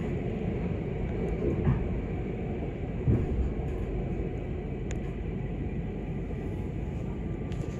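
Passenger train running on the rails close by: a steady low rumble of wheels on track, with a few short clacks about one and a half, three and five seconds in.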